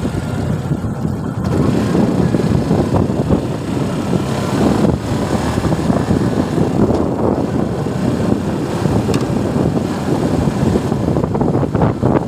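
Suzuki Gixxer motorcycle on the move: a steady rush of wind over the microphone mixed with engine and road rumble.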